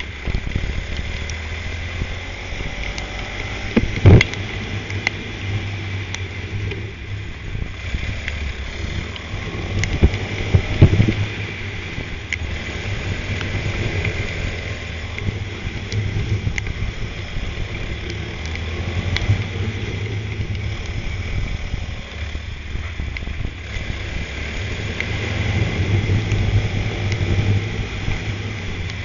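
Racing kart engine running, with wind noise on the microphone. Sharp knocks come about four seconds in and again around ten to eleven seconds.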